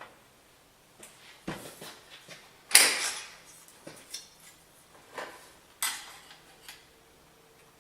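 Irregular metal clanks and knocks from sheet metal and hand tools being handled on a metalwork bench, the loudest and longest about three seconds in.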